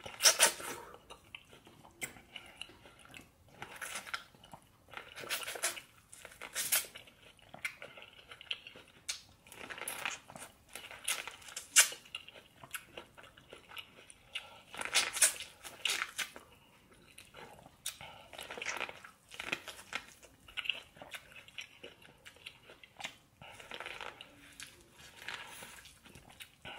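Close-miked eating: crunchy bites and chewing of corn on the cob, in irregular bursts every second or so, the loudest bites near the start and about halfway through.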